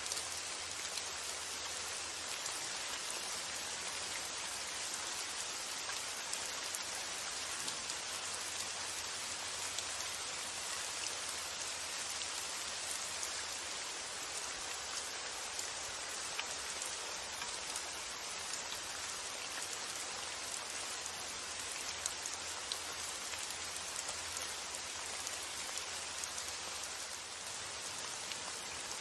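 Steady rain falling: an even hiss of rain with scattered individual drops ticking through it.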